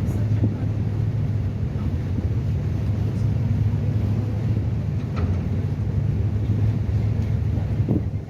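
Passenger catamaran ferry's engines running with a steady low drone.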